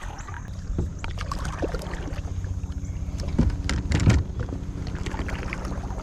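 Wind rumbling on the microphone, with a run of scattered clicks and knocks from handling on a kayak. Two louder thumps come about three and a half and four seconds in.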